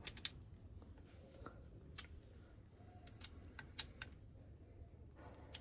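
Scattered light clicks and taps at uneven intervals, the sound of hand tools and small parts being handled during engine assembly, with one sharper click a little past the middle.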